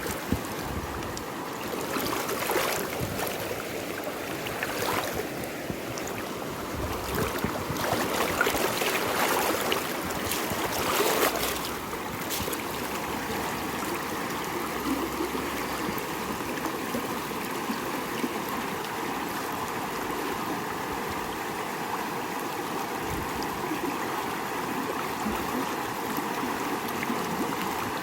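Rushing river water, swollen after heavy rain, running steadily. Irregular louder knocks or splashes come and go during the first dozen seconds, then the water carries on alone.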